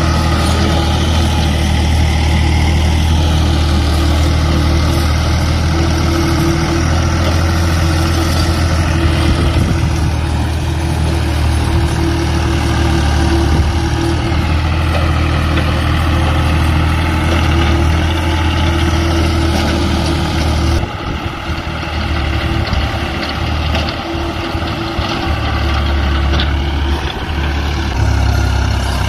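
Tractor's diesel engine running steadily, its pitch drifting slightly up and down, with the level dropping somewhat about two-thirds of the way through.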